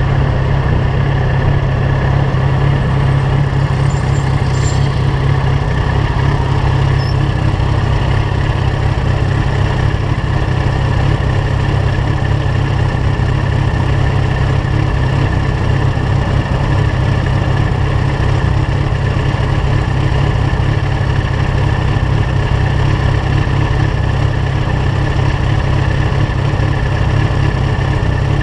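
Yamaha FZ1's inline-four engine idling steadily through a LeoVince GP-style aftermarket exhaust.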